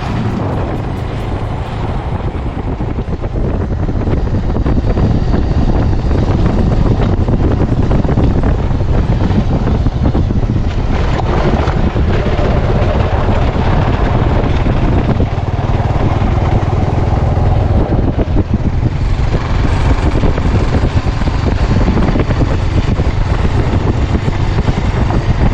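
Motorcycle riding along a road: the engine runs steadily under the rush of wind on the microphone.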